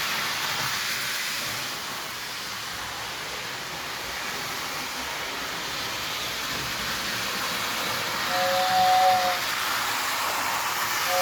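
Lionel 675 toy steam locomotive running forward on track, a steady whirring hiss of its motor, gears and wheels. About 8 seconds in, the 2046W tender's electric whistle blows once for about a second in two steady notes.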